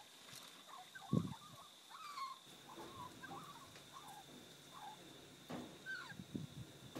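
Faint, scattered bird calls, short chirps and clucks, over a thin steady high-pitched tone, with a few soft knocks about a second in and again near the end.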